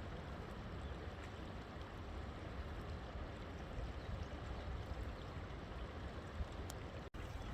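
River water flowing steadily, a constant rushing with a deep low rumble. Near the end the sound drops out to silence for an instant.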